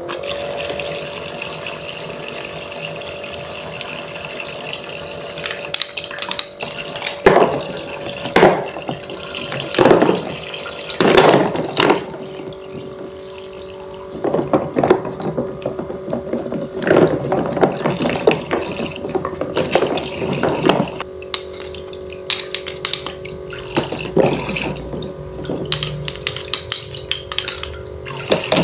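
Water running from a toy kitchen faucet over a steady hum, with repeated bursts of splashing.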